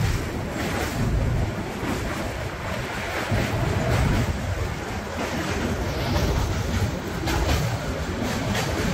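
Passenger train running across a steel truss rail bridge: a steady wheel-on-rail rumble with wind on the microphone, and a few sharp clacks near the end.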